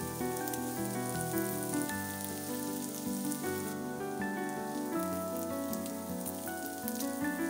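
Diced potatoes sizzling and crackling as they fry in a pan, under background music of held notes.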